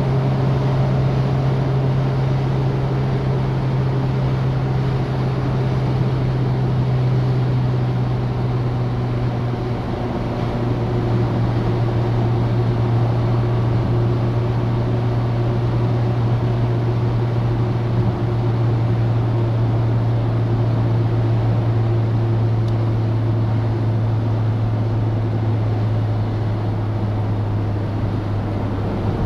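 Citroen DS four-cylinder engine running steadily on the move, a low drone over road and wind noise; the drone drops slightly in pitch about ten seconds in.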